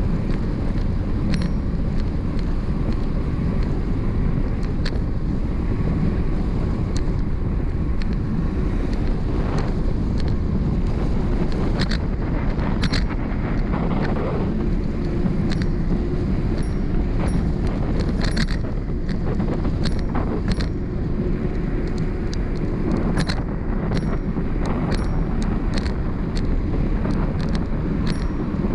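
Wind buffeting the microphone of a bicycle-mounted camera on a fast downhill ride, over a steady low road rumble, with scattered sharp clicks.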